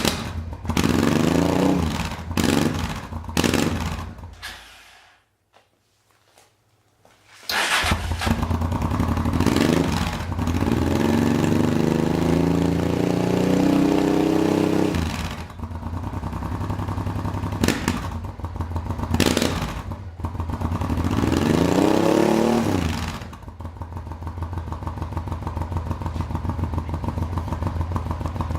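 Honda XRV750 Africa Twin V-twin engine through a new aftermarket exhaust with its dB-killers fitted, revved in short blips, then a couple of seconds of near silence. It comes back running with longer revs that rise and fall and a few sharp blips, settling to a steady idle near the end.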